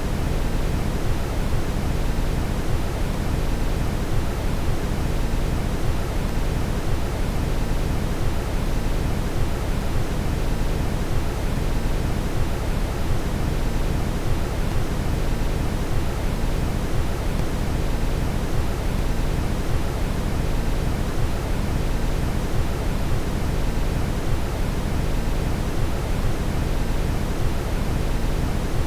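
Steady brown noise: an even, deep rushing hiss, heaviest in the low end, that never changes.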